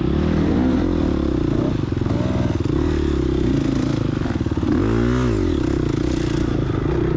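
Gas Gas EX250F four-stroke single-cylinder dirt bike engine running under load on the trail, the revs rising and falling with the throttle, with a quick blip up and back down about five seconds in.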